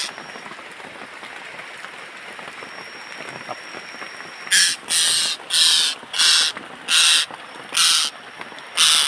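A bird giving a series of seven harsh, raspy calls in quick succession, about one every two-thirds of a second, starting about halfway through. Underneath runs a steady hiss of rain.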